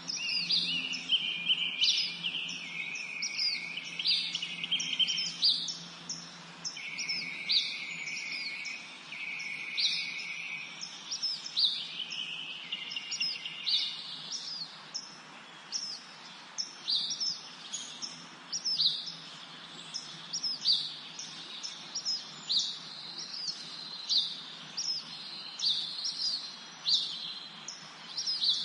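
Several songbirds singing in a spring forest: a steady stream of short, quick down-slurred chirps, with longer trilling songs in the first half.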